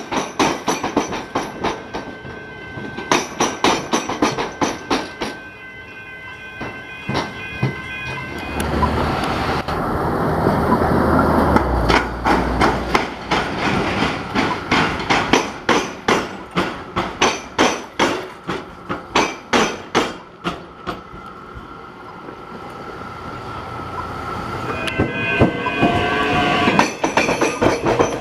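Rail vehicles crossing a tram-and-railway diamond crossing, their wheels clattering over the rail gaps in long runs of rapid, evenly spaced clicks. A louder, deeper rumble builds partway through, and a rising whine comes in near the end.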